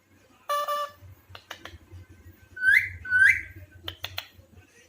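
Alexandrine parakeet vocalising: a short pitched whistle early on, a few sharp clicks, then two loud calls that each rise sharply in pitch, followed by more clicks.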